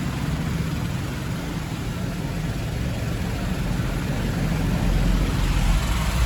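Touchless tunnel car wash spraying water onto the car, heard from inside the cabin: a steady hiss of spray over a low mechanical rumble, growing louder toward the end.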